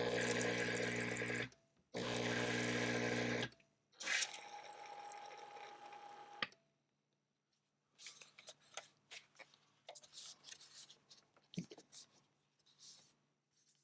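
Breville Barista Touch espresso machine running its pump in two short bursts of about a second and a half each, a humming buzz with rushing water and hiss, as it is flushed during cleaning. A softer hiss follows and cuts off with a click, then light clicks and taps of handling.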